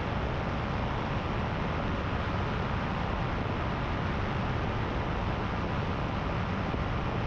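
Paramotor engine and propeller running steadily in cruising flight, an even drone mixed with wind rush.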